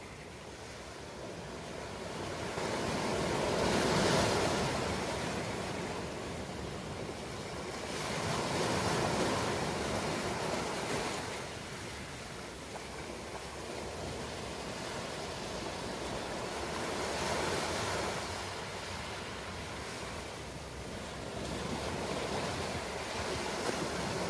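Ocean waves breaking on a shore, a steady wash of surf that swells and fades every few seconds, with the loudest swells about 4, 9 and 17 seconds in.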